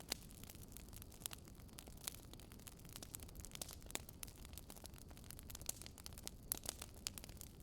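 Wood fire crackling, with many small irregular pops and snaps, over a low steady rumble of storm wind.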